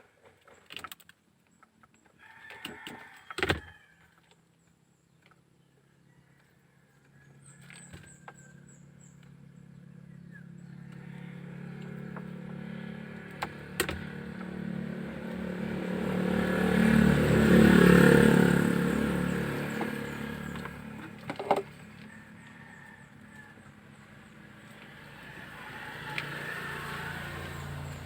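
A few light clicks and a sharp knock from hand work, then a motor vehicle passing by: its engine hum grows louder over several seconds, peaks about two-thirds of the way through and fades, with another vehicle approaching near the end.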